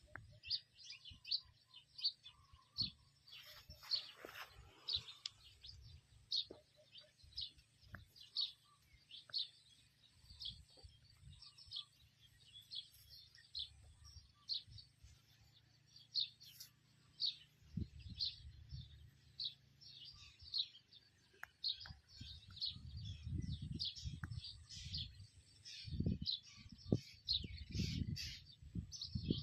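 Small birds chirping, a steady run of short high notes about twice a second. Low rumbling bumps join in during the second half.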